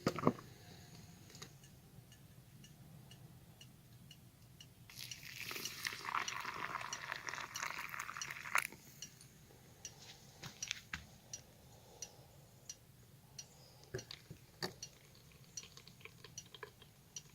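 Faint clinks and taps of camp dishes and utensils, with about three seconds of rushing noise about five seconds in.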